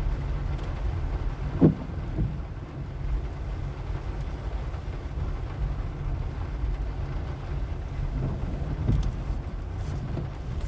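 Car driving over a rough, wet, sandy road: a steady low rumble of engine and tyres, with a couple of knocks about a second and a half in and another near the end.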